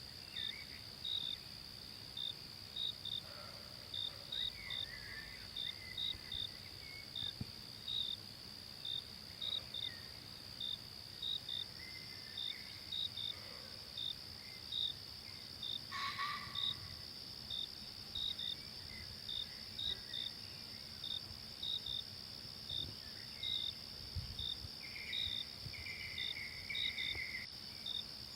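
Forest insects, crickets among them: a steady high-pitched drone with short chirps repeating about twice a second over it. Faint bird calls come now and then, with a brief louder call about two-thirds of the way through.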